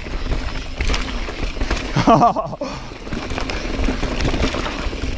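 Yeti SB4.5c mountain bike riding downhill on loose dirt: wind rumbling on the camera microphone, tyres crunching and the bike rattling in quick clicks over the rough surface. A brief vocal sound from the rider about two seconds in.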